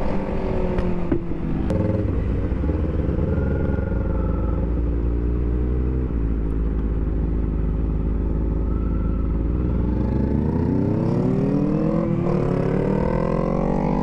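Vehicle engine running steadily at low speed, then revving up from about ten seconds in, with a brief break near twelve seconds before the pitch climbs again.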